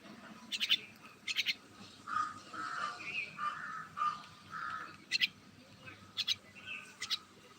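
Common mynas (shalik) calling: sharp chirps in quick groups of two or three, with a run of lower, rougher chattering notes in the middle.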